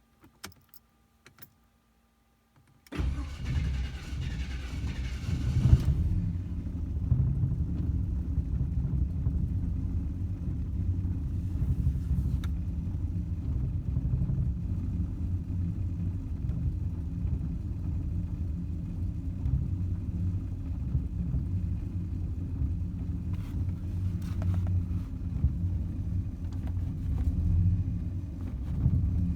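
Jaguar car engine cranked on the starter from cold, with no choke and no pedal pumping, for about three seconds. It catches about six seconds in and settles into a steady idle. Before the cranking there are only a couple of faint clicks.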